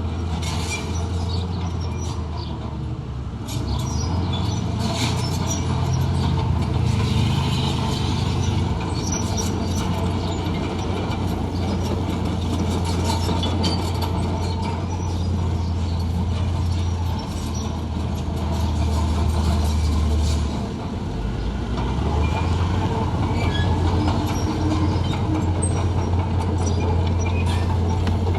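Heavy construction machine's diesel engine running with a deep, steady drone that shifts in pitch and load a few times, with scattered clanks and rattles over it.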